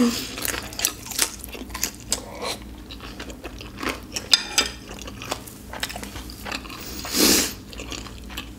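Close-miked chewing of a mouthful of spicy ramen noodles with Hot Cheetos: wet mouth sounds broken by many small sharp clicks, with one louder rush of breath-like noise about seven seconds in.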